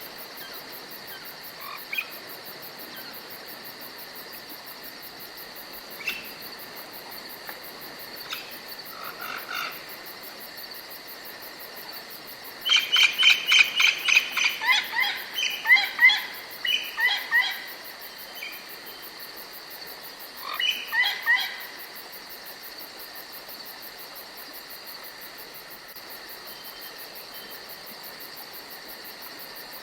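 Forest ambience with a steady high-pitched trill of crickets. About halfway through, a run of loud, quickly repeated chirping calls lasts several seconds. A shorter run comes a little later.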